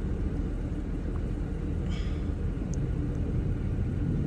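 Car engine idling steadily, a low rumble, with a faint short chirp about two seconds in.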